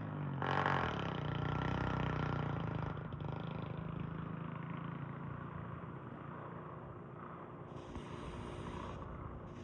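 2005 Kawasaki KLX125's single-cylinder four-stroke engine idling with no muffler, only the bare header pipe, settling after a rev and getting gradually quieter.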